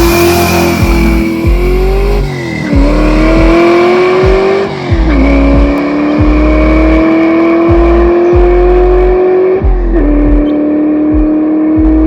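Car engine accelerating hard through the gears, its pitch climbing steadily and dropping sharply at each of three upshifts. Music with a steady beat plays along.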